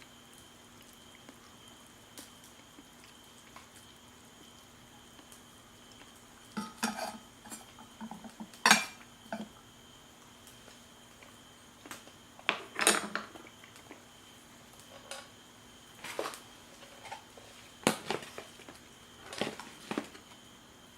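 Utensils and dishes being handled: after several quiet seconds, a scattered run of sharp clinks and clatters, some single and some in quick clusters.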